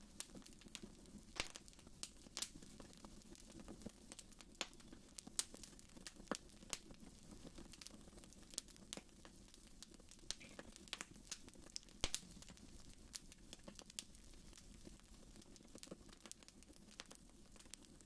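Wood fire in a fireplace crackling, with irregular sharp pops and snaps, several a second at times, over a faint steady rush.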